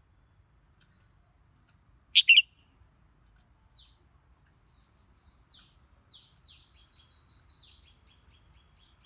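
Red-whiskered bulbul calling: a loud, sharp double note about two seconds in, a couple of single notes, then from about six seconds a quick run of short repeated chirps, about five a second, growing fainter toward the end.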